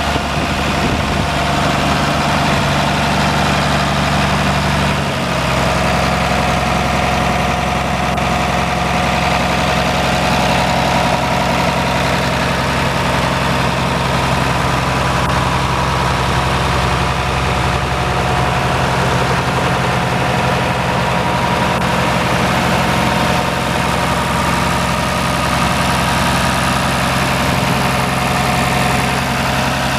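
Diesel engine of a 1967 International Harvester 856D Wheatland tractor idling steadily, its note shifting slightly about five seconds in.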